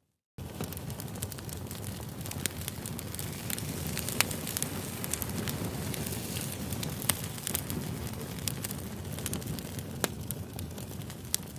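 Wood campfire burning: a steady low rush of flame with frequent sharp crackles and pops. The sound cuts in abruptly after a brief silence right at the start.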